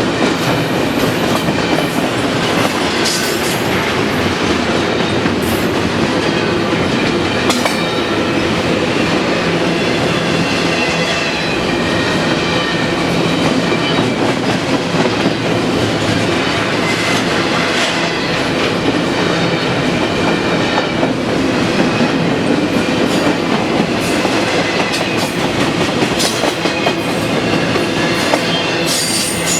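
Double-stack intermodal container train rolling past, steel wheels clacking steadily over rail joints, with faint wheel squeal at times.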